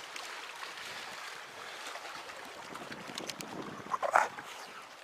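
Steady outdoor noise of wind and water, with a few light clicks and one short, loud sound about four seconds in.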